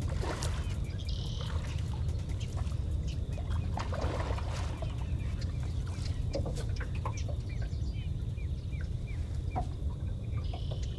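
Marsh birds calling: a run of short repeated chirps, about two a second through most of the stretch, over a steady low rumble.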